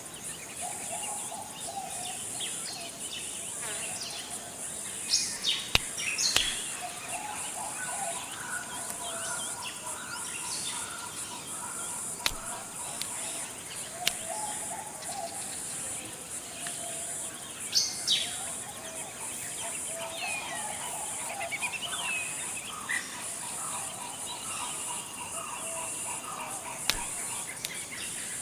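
Forest ambience: a steady high-pitched insect drone with many birds calling and chirping over it, including lower whistled notes. The loudest bursts of calls come about five to six seconds in and again near eighteen seconds.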